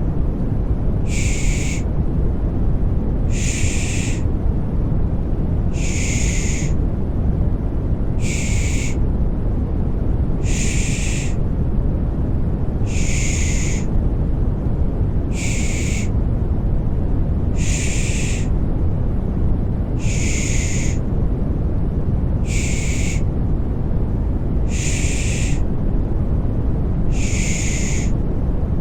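Rhythmic shushing, a 'shh' about every two seconds, over a steady deep rushing white noise used to soothe a baby to sleep.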